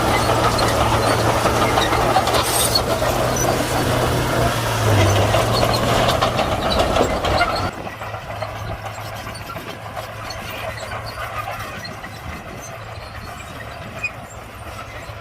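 Komatsu D41P bulldozer's diesel engine running loudly with track and blade clatter, then about halfway through the level drops suddenly to a quieter, steady engine running.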